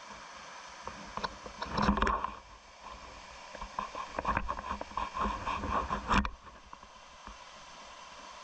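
Running water with bursts of splashing and knocking over it, which stop suddenly about six seconds in.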